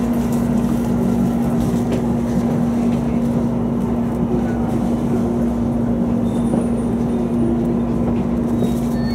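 Running noise inside a moving JR East commuter train car: a steady rumble with a steady low hum over it.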